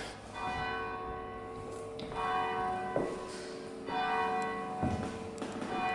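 Bells ringing, several struck strokes one to two seconds apart, each ringing on with a long decay. They are likely striking the hour at eleven o'clock.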